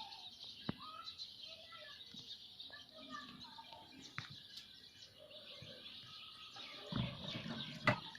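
Birds chirping continuously in a dense chatter, with short lower chirps and a few sharp clicks, growing louder near the end.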